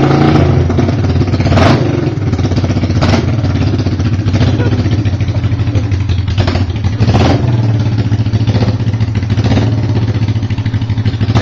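1971 Honda CL350's air-cooled parallel-twin engine running steadily, having caught and stayed running on a freshly rebuilt pair of carburetors, with a few brief louder surges.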